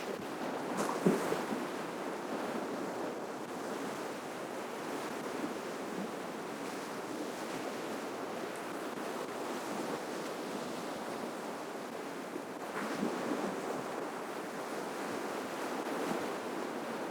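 Ocean surf washing on a shoreline: a steady wash of breaking waves, with a louder breaking surge about a second in and another later on.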